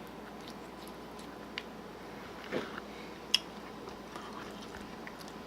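Small fillet knife working along a snipe's rib cage, cutting the breast meat away from the bone: soft wet cutting with a few small clicks, the sharpest about three seconds in.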